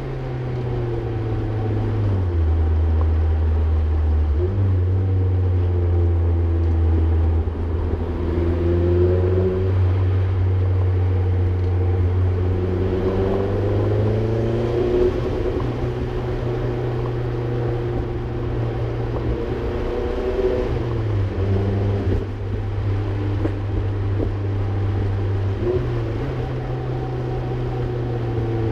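Modified Mazdaspeed 3's turbocharged four-cylinder engine and exhaust heard from inside the cabin while cruising. The engine note drops and climbs again several times as the car changes gear and speed.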